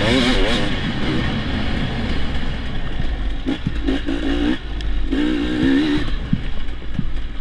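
Dirt bike engine revving in short bursts as the throttle is opened and closed, with a constant low rumble underneath.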